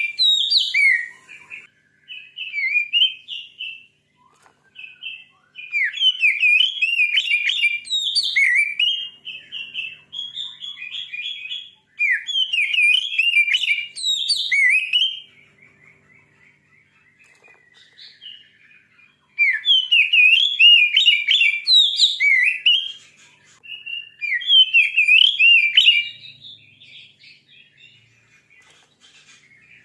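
Oriental magpie-robin (kacer) singing a fierce, challenging song: rapid, varied whistles and chirps in loud bursts of a few seconds, with short quieter pauses between them.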